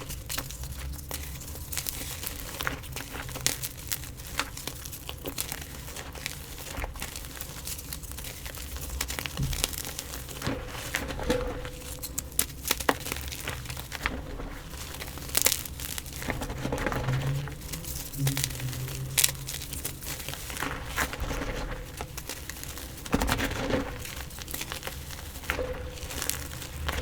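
Gym chalk being crushed and crumbled, a dense run of crisp crunches and crackles with no pause.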